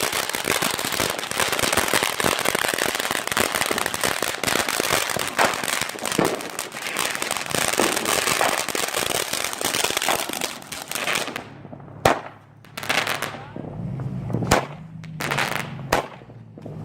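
Firecrackers going off in a dense, rapid crackling string for about eleven seconds, then several separate, louder pops with short gaps between them.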